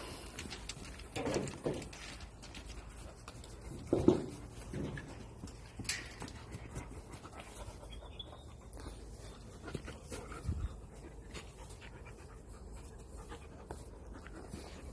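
Wolves making a few short vocal sounds, the loudest about four seconds in.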